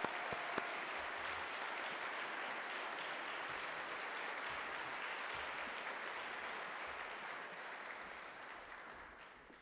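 Audience applauding an award winner's name, a steady even clapping that fades out near the end.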